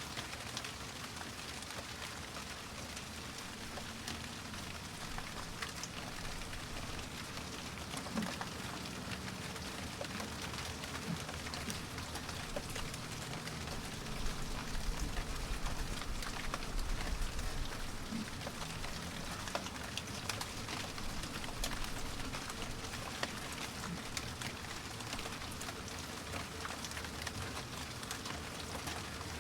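Steady rain falling, with scattered drop ticks and a low rumble that swells for a few seconds about halfway through.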